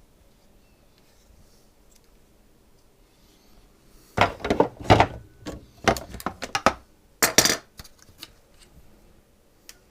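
Small hard parts and tools knocked and clinked together on a work surface while a SodaStream is being worked on: a burst of sharp clicks and knocks starting about four seconds in and lasting about three seconds.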